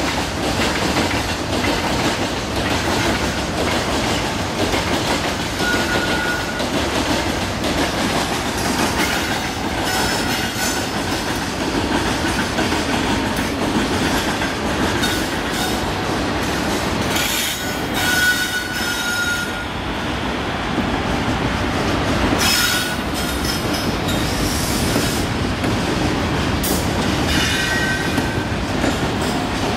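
Freight train of covered box wagons hauled by electric locomotives rolling past close by: a steady rumble and rattle of steel wheels clacking over rail joints. Brief high wheel squeals come several times along the way.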